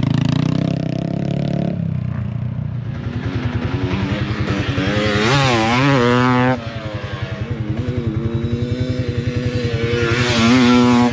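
Dirt bike engine revving, its pitch climbing and wavering as the throttle is worked, then dropping sharply about six and a half seconds in and rising again near the end. A steady low engine pulse runs underneath.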